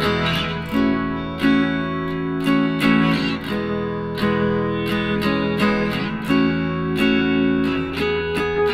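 Background music: an acoustic guitar plucked and strummed in a steady rhythm.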